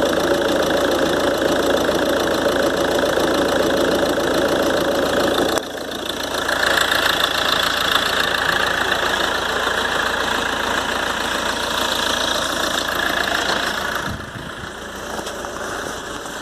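Ford Transit 2.2 TDCi diesel idling from a cold start, with a whistle from the turbocharger. The whistle remains after the compressor wheel, shaft bushings and seals were replaced, and the owner takes it for imbalance in the turbo. The sound changes level a third of the way in and drops near the end.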